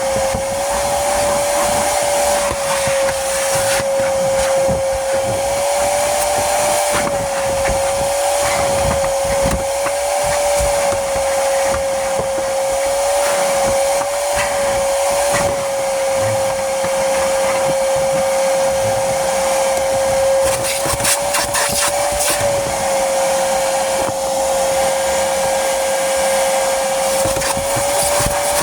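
Vacuum cleaner running steadily: a high motor whine that wavers slightly in pitch over the rush of air. A brief clicking rattle comes about two-thirds of the way through.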